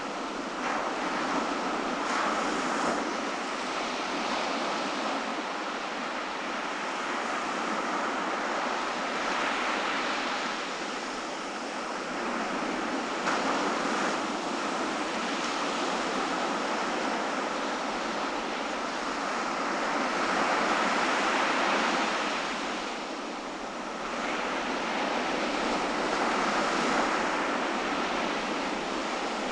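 Ocean surf washing onto a beach: a steady rushing wash that swells and ebbs as waves break, loudest about two-thirds of the way through.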